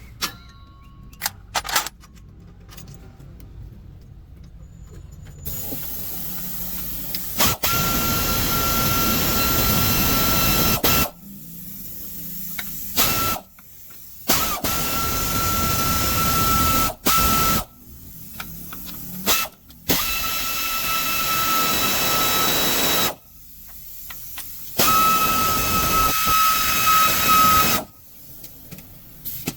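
Compressed air hissing in about six bursts of a few seconds each, each with a steady high whistle, as from a workshop air tool. A few sharp clicks and knocks come before the first burst.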